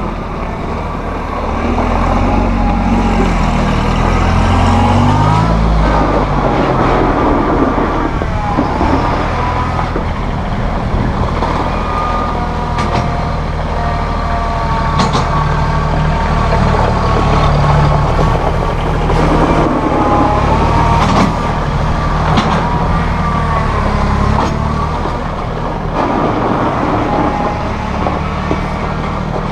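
Massey Ferguson 1635 compact tractor running, its engine speed rising and falling, with a wavering whine over the engine note and a few scattered knocks.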